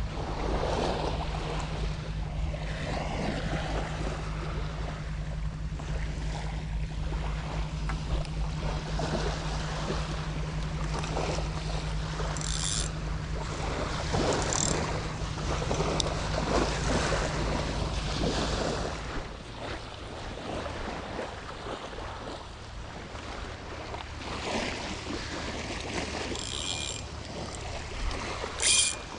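Wind and light surf on the beach with a steady low engine drone that stops about two-thirds of the way through, leaving the wash of the surf.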